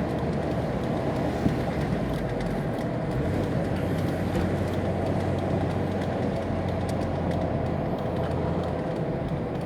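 A car driving along a road: steady engine hum and road noise.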